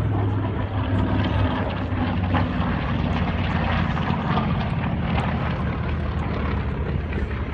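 A World War II propeller warplane's piston engine droning loud and steady overhead, easing off a little near the end.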